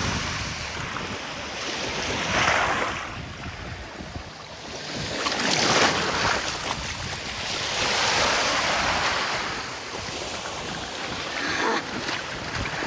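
Surf breaking on a sandy beach, a rushing wash that swells and falls back every few seconds, with wind rumbling on the microphone.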